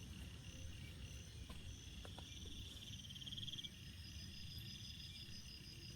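A chorus of calling insects: several steady high chirring tones, with a pulsing trill that swells about a second and a half in and stops about two seconds later, over a low rumble and a few faint ticks.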